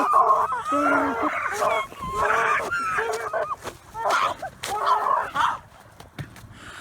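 A person's voice making animal-like cries in a run of wavering bursts, stopping about six seconds in.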